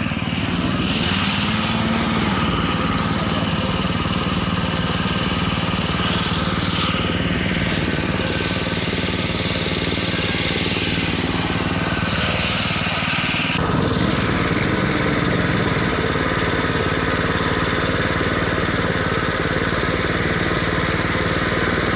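Small minibike engine running steadily as the bike is ridden, its pitch shifting with the throttle, with a sudden change in the engine sound about two-thirds of the way through.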